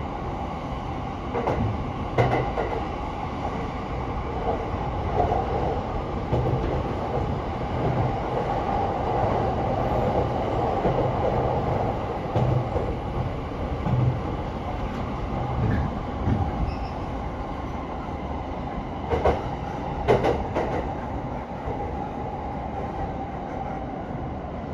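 A moving commuter train heard from inside a passenger car: a steady rumble of wheels on rail with a running hum. There are sharp clacks from the wheels on the track about two seconds in, and again twice around nineteen to twenty seconds in.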